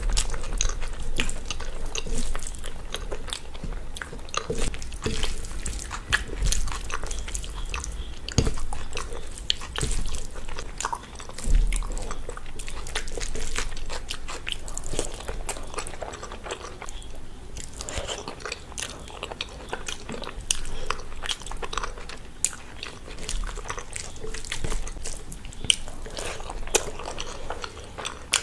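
Eating sounds: chewing and wet mouth smacks from a mouthful of rice and chole, with fingers squishing and mixing the rice on a steel plate. Many irregular short clicks and smacks throughout.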